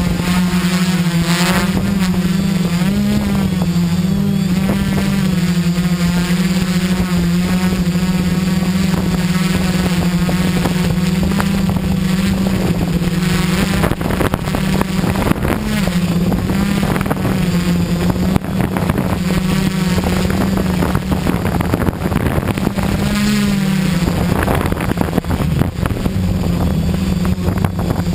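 XAircraft X650 V4 quadcopter's electric motors and propellers running in flight: a steady hum whose pitch wobbles briefly several times as the motors change speed, over wind noise.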